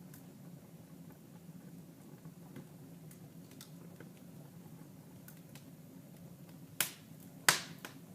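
Wood fire crackling in a fireplace: faint scattered crackles over a low steady hum, then two loud pops near the end, under a second apart.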